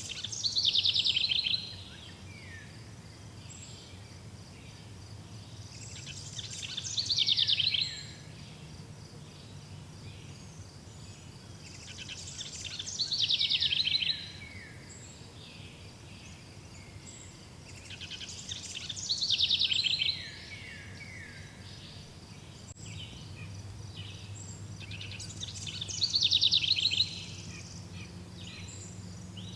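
A songbird singing the same short phrase five times, about every six seconds, each phrase ending in a fast trill. Behind it a faint, steady, rapidly pulsing insect trill and a low steady hum.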